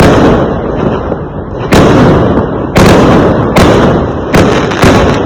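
Fireworks going off: about six loud bangs, roughly one a second, each dying away into a rumbling tail before the next.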